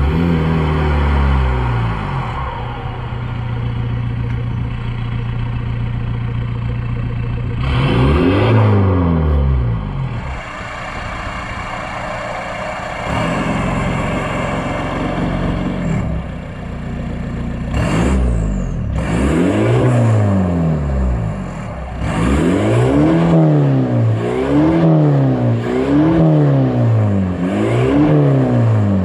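Audi A4 B7 2.0 TDI BPW eight-valve four-cylinder diesel, straight-piped with a 3-inch downpipe and 2.5-inch pipe after it, idling and being revved. It idles steadily, then revs up and drops back once, then a few more times, and near the end it is blipped five times in quick succession, about one rev a second.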